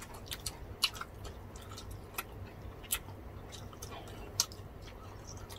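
Close-miked eating sounds: soft chewing of roast chicken and grilled pork belly eaten by hand, with scattered small wet clicks and smacks, a few sharper ones about a second, three seconds and four and a half seconds in.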